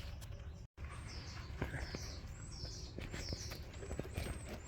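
A small songbird singing a string of short, high chirping notes, about two a second, starting about a second in, with faint clicks of handling in between.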